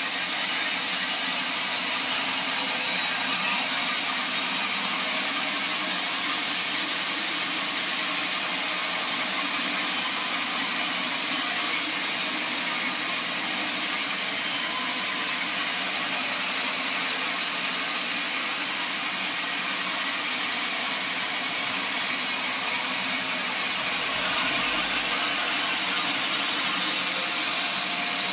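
Sawmill saw machinery running steadily, a constant mechanical noise with a faint high whine over it.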